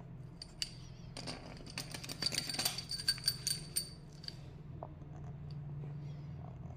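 Small metal tools and parts clinking together, a quick run of bright, ringing clinks about two to four seconds in, over a steady low hum.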